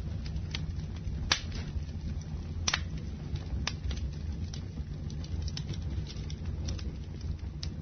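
Campfire burning, with a steady low rumble of the flames and irregular sharp crackles and pops from the burning wood. The strongest pops come about a second and a half in and just under three seconds in.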